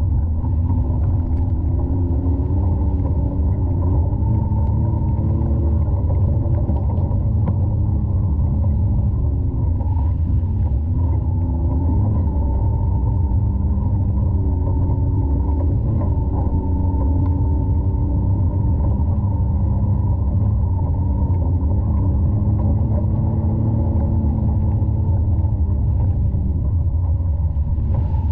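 Side-by-side UTV engine running under way, its pitch rising and falling with the throttle over a heavy low rumble, heard muffled with little high end.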